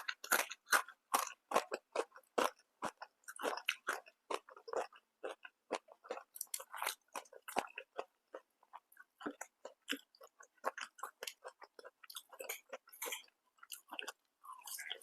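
A person chewing and crunching food: a rapid, uneven run of short crunches and mouth clicks, several a second.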